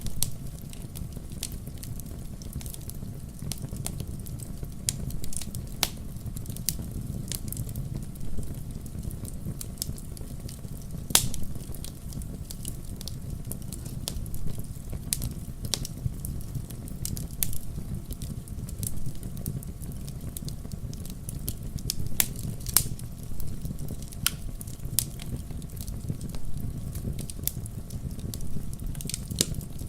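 Wood fire burning in a fireplace: irregular sharp pops and crackles of the logs, several a second, over a steady low rumble of the flames. A few louder pops stand out, about eleven seconds in and again a little after twenty-two seconds.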